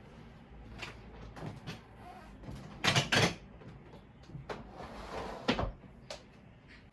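Knocks and clatter of household things being handled while a room is tidied, with two sharp knocks close together about three seconds in and a rustle shortly after.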